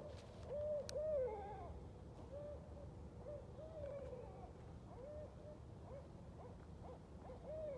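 Several barred owls hooting over one another: a quick run of short arched hoots, with a longer falling slur about a second in.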